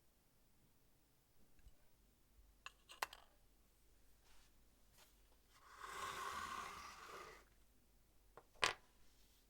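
A few small clicks and taps, then a rubbing scrape lasting about a second and a half in the middle, and one sharp click near the end: small hard objects being handled and worked on a bench.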